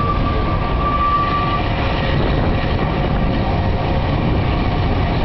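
Narrow-gauge diesel-hauled train running steadily round a curve, heard from an open coach window: a continuous rumble of wheels and engine, with a thin high squeal from the wheels in the first second and a half.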